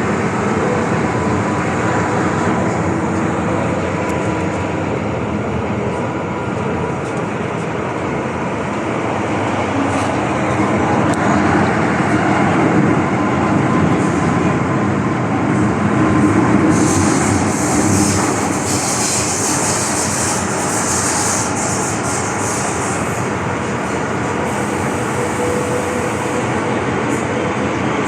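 MTR M-train electric multiple unit running along the track: a steady rumble of wheels and motors with a faint whine in the first part, swelling a little past the middle. A higher hiss joins for several seconds about two-thirds of the way through.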